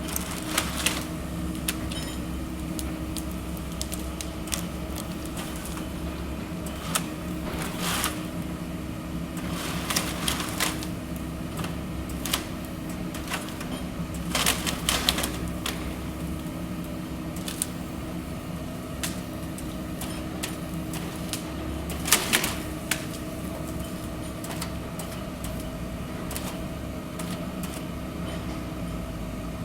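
Forestry harvester on a 0.25-class excavator base at work: its engine runs steadily while the head gives scattered sharp clacks and knocks, the loudest about a third of the way in, around halfway and again about three-quarters through.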